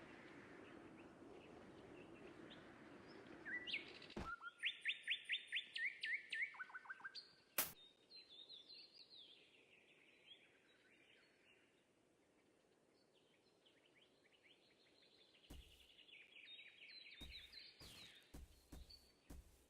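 A bird singing a fast series of repeated high chirps, with quieter chirping later on. A low steady hum in the first few seconds and a few sharp clicks.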